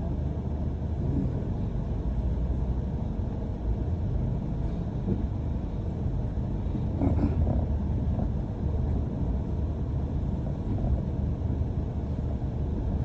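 Steady low rumble of a London bus's engine and tyres, heard from inside the moving bus, with a brief louder patch about seven seconds in.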